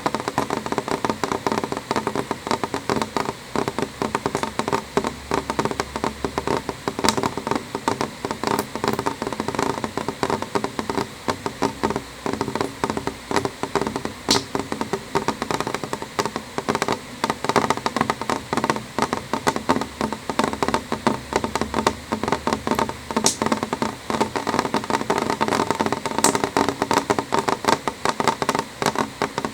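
Steady rain on a window: a dense, even run of drops tapping on the glass, with a sharper single tick now and then.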